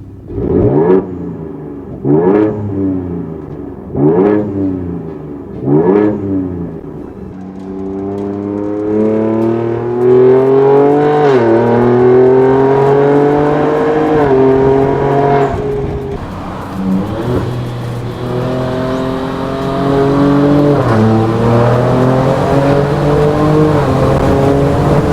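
Ford Ranger Raptor's 3.0-litre twin-turbo V6 through a titanium cat-back exhaust: four quick revs, then the truck accelerating through the gears, the note rising and dropping back at each upshift, and climbing again near the end.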